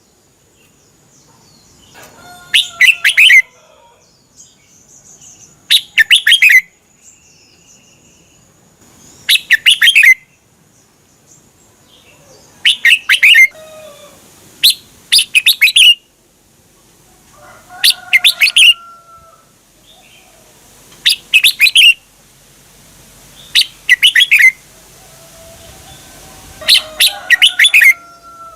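Red-whiskered bulbul singing: short, loud, bubbling song phrases of about a second each, repeated roughly every three seconds, about nine in all.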